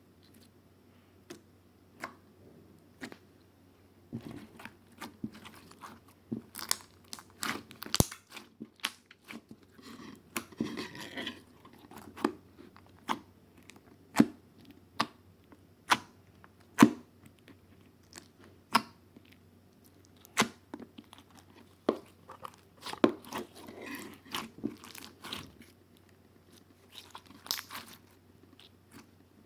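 Close, crisp crunching and crackling, a few sharp snaps a second at an uneven pace, like crunchy food being chewed or something crisp being crushed close to the microphone.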